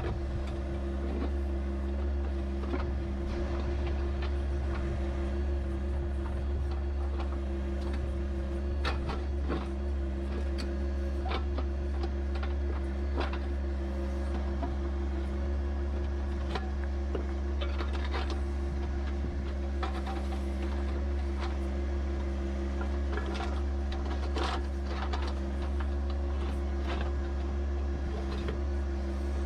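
Compact diesel tractor engine running steadily, with scattered short knocks and clatter over it.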